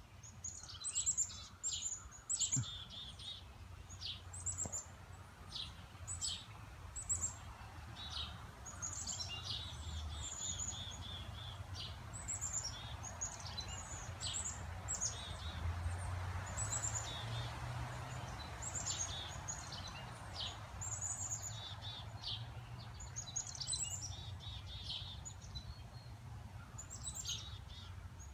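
Birds chirping and singing in woodland: many short, high calls that sweep down in pitch, with a few quick trills, over wind rustling the leaves and a low wind rumble on the microphone that swells in the middle.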